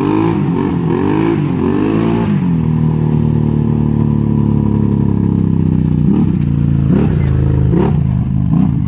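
Can-Am Renegade ATV's V-twin engine through a DC Sports straight-through aftermarket muffler ('fart can'), revved in quick repeated blips. It then holds a steady note that slowly drops for a few seconds, and blips again several times near the end.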